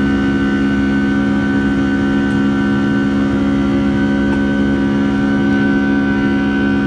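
Rolls-Royce RB211 turbofan engines of a Boeing 757-200 heard from inside the cabin, running steadily: a constant low drone with a thinner high whine over a rushing noise.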